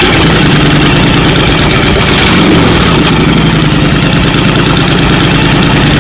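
Honda Fury's 1300cc liquid-cooled V-twin running through an aftermarket DG hard chrome exhaust, loud and steady at idle, with a slight rise and fall in pitch about halfway through.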